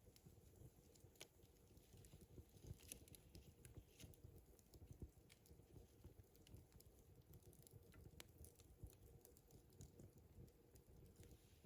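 Near silence with faint, irregular small clicks and crackles over a low background rumble.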